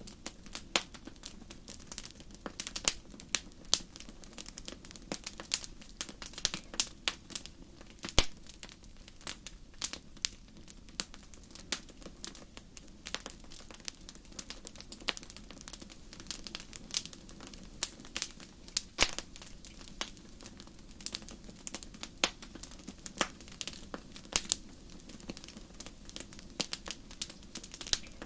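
Fireplace wood fire crackling: irregular sharp snaps and pops, several a second, over a low steady rush of the flames, with a louder pop about eight seconds in.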